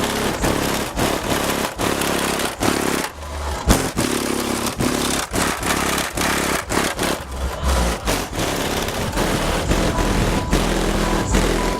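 Bass-heavy music played at very high volume through a van's car audio system with twelve DC Audio XL 12-inch subwoofers, with deep pulsing bass and a harsh, overloaded sound.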